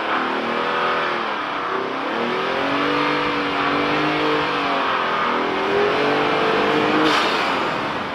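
Ford Raptor's twin-turbo EcoBoost V6 accelerating, its pitch dropping and climbing again several times.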